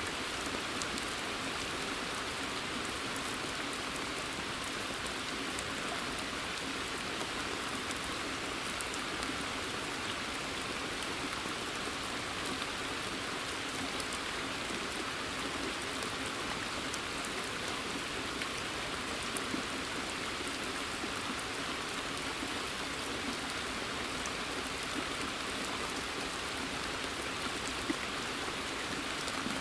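Steady rain falling in a forest and onto a pond's surface, an even hiss with scattered individual drop impacts.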